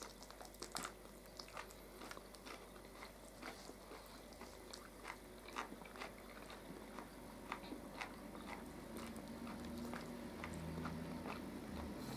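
Faint chewing and biting of food, with scattered small clicks of forks against plates.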